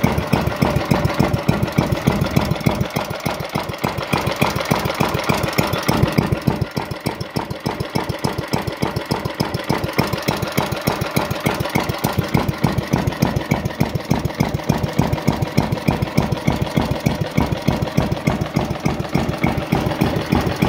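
Kubota GS 160 single-cylinder petrol engine idling slowly and evenly just after a cold start, firing in a steady regular beat. It is a smooth, low tick-over, the sign of a good engine freshly cleaned with its carburettor serviced.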